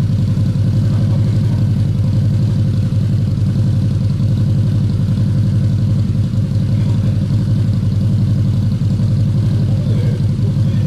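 Harley-Davidson Night Rod V-twin trike idling steadily through a temporarily fitted Vance & Hines exhaust, a deep, even, pulsing exhaust note.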